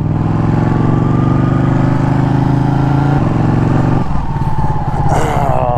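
Ducati 1199 Panigale's L-twin engine pulling the bike along under throttle, its pitch rising steadily, then two gear changes about three and four seconds in, the revs dropping at the second. A brief hiss comes through near the end.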